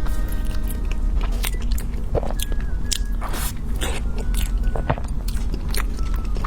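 Close-miked eating sounds: biting into and chewing a fruit-topped cream cake, with frequent short, sharp mouth clicks.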